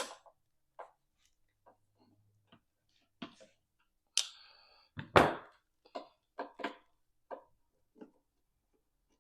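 Scattered clicks and knocks of parts and tools being handled, with a ringing clink about four seconds in and a heavy thump just after, the loudest sound.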